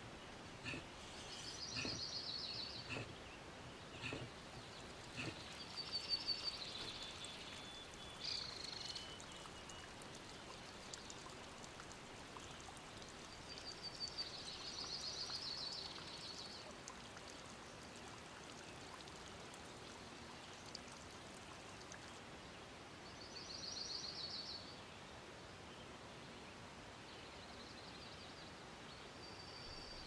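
A songbird singing short, fast trilled phrases every few seconds over a faint woodland hiss. There are a few soft clicks in the first few seconds.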